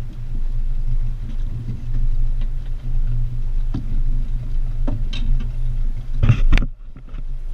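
An engine running steadily with a low, even hum, with a few faint clicks and a short louder noise about six seconds in.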